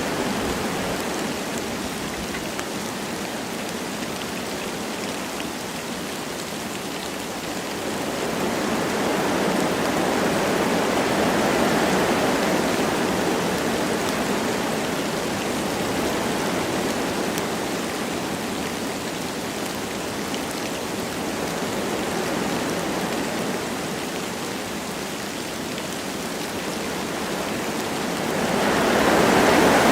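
Wind blowing through forest trees with light rain: a steady rushing hiss that swells and eases slowly in gusts, rising again near the end.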